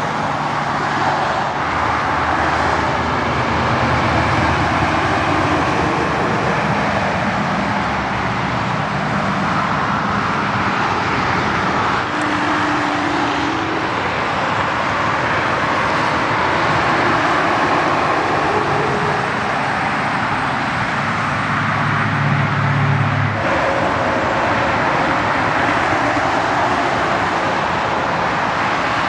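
Steady highway traffic: continuous tyre roar from passing vehicles, with the low drone of heavy truck engines rising and fading as they go by. The sound changes abruptly about 23 seconds in.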